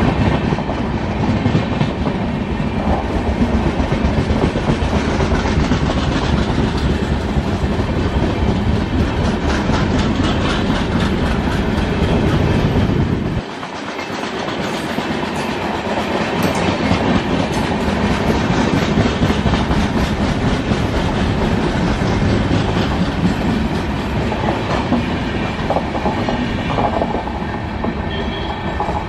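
Brindavan Express passenger coaches rolling past close by, the wheels clattering steadily over the rail joints with a continuous rumble. The low rumble dips briefly about halfway through.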